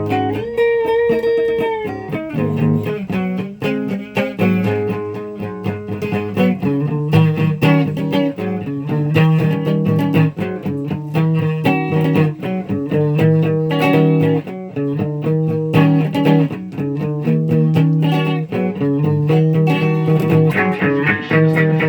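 Electric guitar playing a continuous line of picked notes and chords over repeated sustained low notes.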